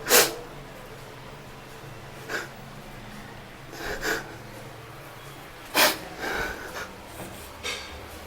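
A person sniffing sharply through the nose several times, with the loudest sniffs near the start and about six seconds in.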